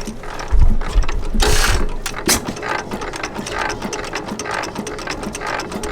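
Armstrong 6 hp cam wobbler hit-and-miss engine running, its gears and offset wobble-cam valve gear clicking and clattering in a fast, steady rhythm. A heavy low thump comes about half a second in.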